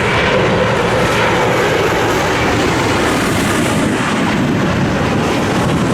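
Jet airliner passing close by, its engines loud and steady.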